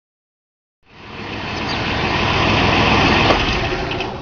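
A car running as it pulls up, starting about a second in and growing louder over the next two seconds, then easing slightly near the end.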